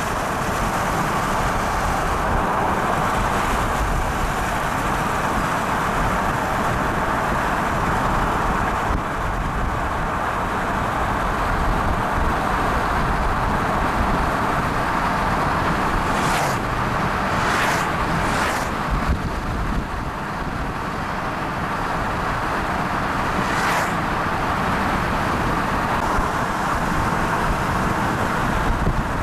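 Steady road and engine noise from a moving car, with a few brief whooshes about halfway through and again a little later.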